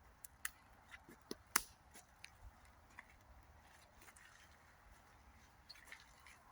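Faint trickle of rainwater running down a forest trail, with scattered sharp drips and clicks, most of them in the first two seconds.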